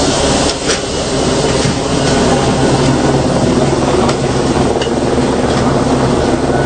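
Motor vehicle running with a steady low engine hum and road noise, with a few short clicks.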